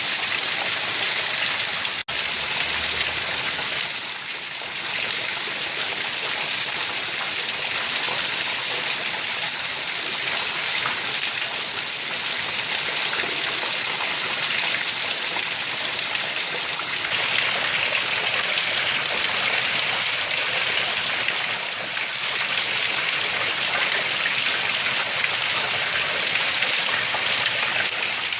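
Heavy rain pouring steadily, a dense even hiss, with a momentary cut in the sound about two seconds in.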